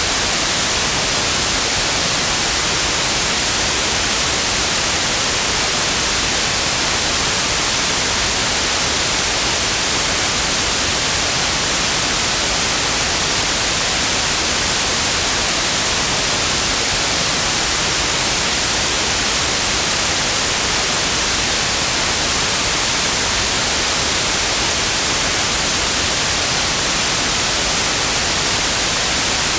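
Continuous synthetic white noise: a steady, even hiss, brighter toward the high end, unchanging throughout.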